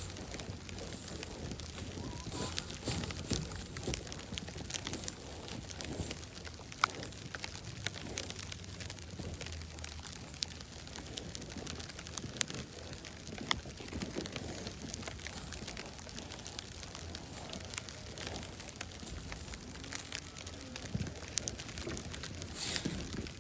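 Irregular ticking and crackling of sleet and icy, sleet-crusted snow, with a few sharper crunches.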